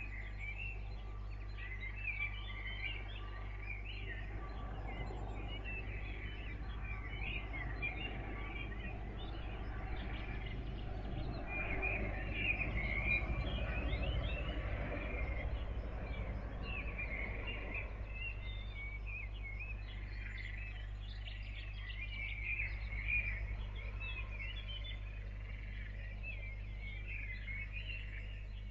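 Many small birds chirping and singing in a dawn chorus over a steady low hum, with a louder low rumble swelling about halfway through.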